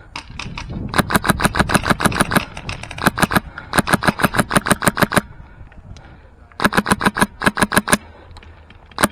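Airsoft SLR rifle with a PolarStar Fusion Engine (high-pressure air) firing full-auto: three long bursts of rapid, evenly spaced shots at about ten a second, with a short burst near the end.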